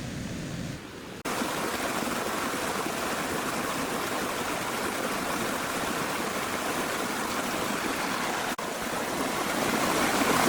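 Steady rushing noise, which starts abruptly about a second in, drops out for an instant near the end, and grows slightly louder toward the close.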